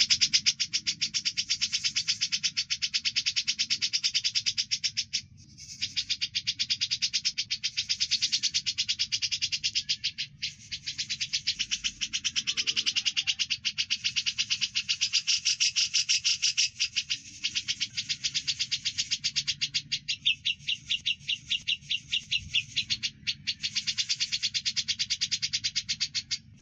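Bird-song training recording mixing grey-cheeked bulbul (cucak jenggot) and Eurasian tree sparrow (burung gereja) calls: a continuous stream of rapid, high chirps with brief breaks about five, ten and twenty-three seconds in.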